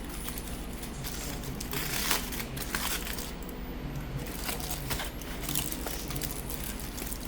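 Crinkling and rustling of takeout food wrapping being handled and opened, with irregular crackles and a sharper click about two seconds in.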